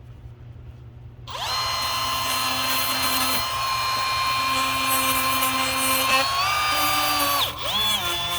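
Small high-speed electric power tool starts up about a second in and runs with a steady high whine. Its pitch rises slightly, then it slows briefly near the end and picks up speed again.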